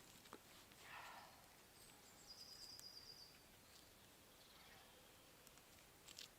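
Faint woodland quiet with a small bird giving one short, high trill a couple of seconds in. There is a soft rustle about a second in and a couple of faint clicks near the end.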